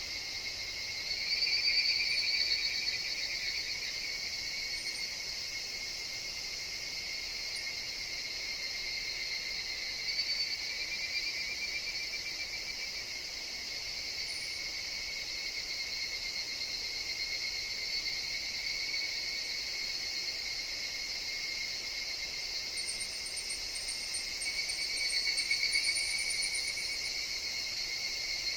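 Higurashi (evening cicadas) calling in chorus: a steady high trill with swells of louder, pulsing calls about a second in, around ten seconds in and near the end.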